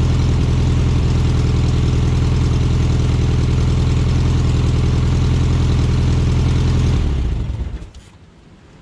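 A 1969 VW Karmann Ghia's air-cooled flat-four engine idles steadily, still early in its run after a cold start. About seven seconds in it is switched off and runs down to a stop within a second.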